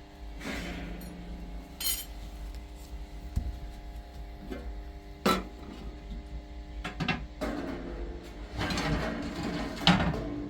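Scattered knocks and clinks of household objects being handled, with a busier stretch of handling near the end and a steady faint hum underneath.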